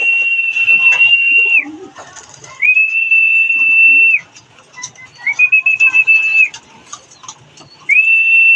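A handheld whistle blown in four long, steady, high-pitched blasts, the third with a warble, used as a training signal for loft pigeons.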